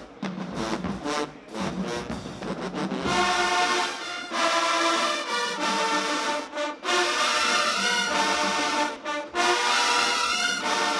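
College marching band playing: short, punchy ensemble hits, then about three seconds in the brass section comes in with loud, sustained chords.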